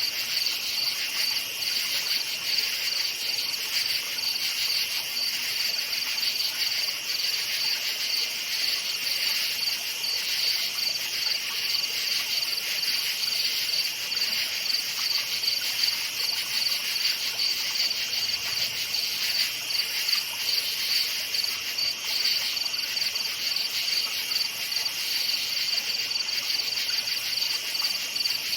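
Crickets chirping in a steady, fast, even pulse at night, with several chirps layered into a continuous chorus.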